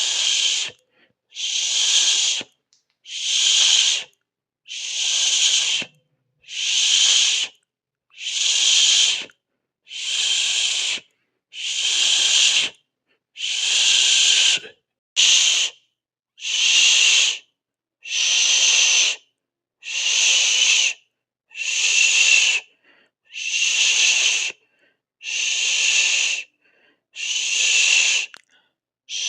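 Rhythmic hissing, one hiss about every second, each lasting just under a second with a brief silence between.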